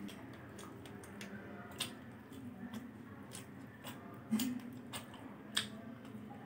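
Faint chewing of a piece of chicken 65 (deep-fried spiced chicken), with a handful of sharp mouth clicks scattered through.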